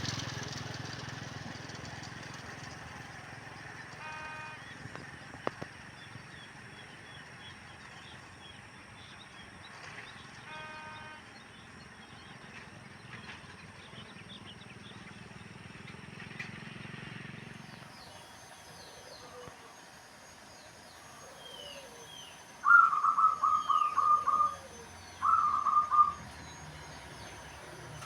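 Wild birds calling: faint high chirps throughout, then near the end two loud bursts of rapid repeated notes, the second shorter than the first. A low background hum stops about two-thirds of the way in.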